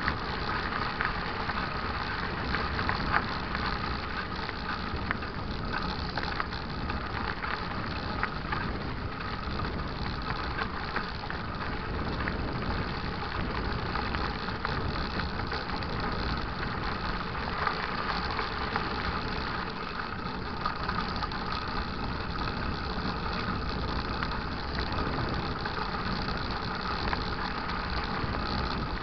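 Mountain bike riding along a dirt trail: steady tyre rumble and wind noise, with frequent small rattles and clicks from the bike over the rough ground.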